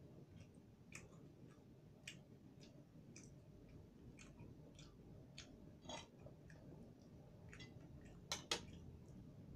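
Faint chewing and mouth clicks of a person eating rice and pork by hand, irregular small clicks about twice a second, with a couple of sharper, louder clicks near the end.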